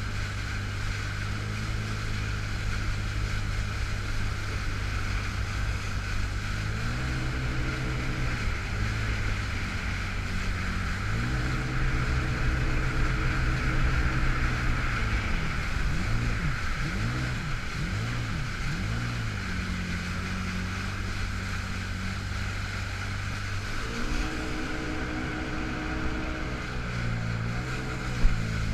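Engine of a 2005 Yamaha FX Cruiser H.O. personal watercraft running under way, its pitch stepping up and down several times as the throttle changes and wavering for a few seconds in the middle, over a steady rush of water and wind. The engine is stuck in its reduced-power low mode. A brief knock comes near the end.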